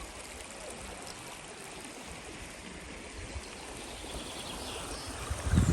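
Stream water running steadily over stones. A louder low thump or rumble comes near the end.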